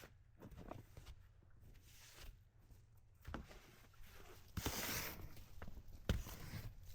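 Footsteps in wet snow, with scattered scuffs, a longer swish about two-thirds through and a sharp thump near the end.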